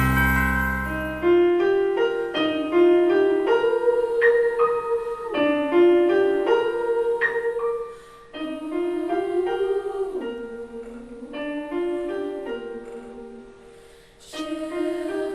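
Slow piano music: a melody of held notes over repeated chords, in two phrases that each fade out before the next one begins. A deep low note dies away in the first second.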